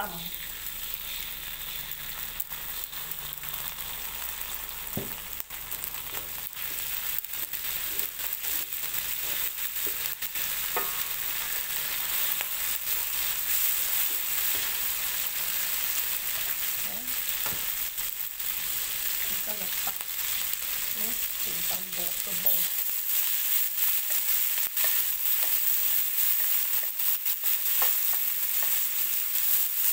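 Chopped aromatics sizzling in hot oil in an aluminium wok, with a wooden spatula stirring and scraping against the pan. The steady sizzle grows a little louder in the second half.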